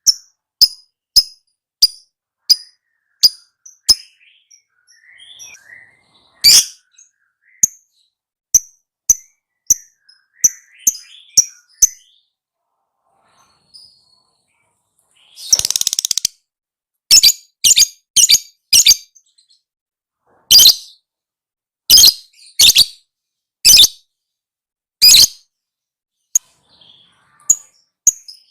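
Lovebird chirping: a series of short, sharp, high-pitched chirps, then a pause. About halfway through there is a longer, harsh chattering burst, followed by more loud chirps about a second apart.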